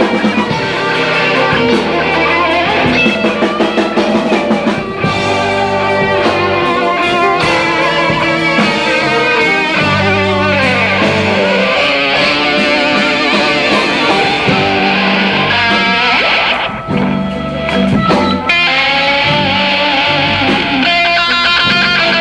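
Live blues-rock band playing an instrumental passage led by electric guitar, with bass and drum kit underneath; the playing thins out briefly about three quarters of the way through.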